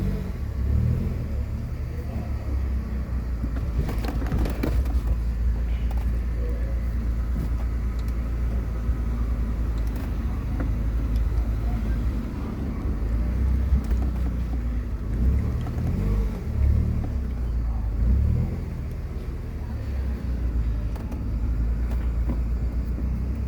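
Mercedes-Benz A160 (W168) being driven: a steady low rumble of engine and road noise that swells and eases, with a few light clicks about four seconds in. The grinding noise from the front end that the test drive is meant to find does not show up.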